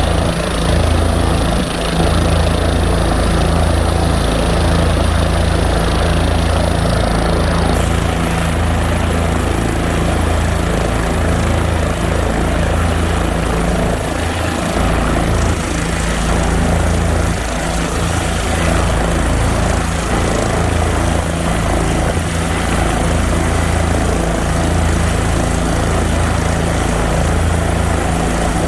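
Minnesota State Patrol aircraft N119SP running steadily, a continuous loud rumble with a steady low hum. About eight seconds in, a hiss in the upper range gets louder.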